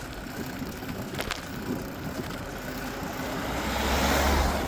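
Road and wind noise on a handheld camera while cycling, with a single click about a second in and a rush that swells to its loudest near the end.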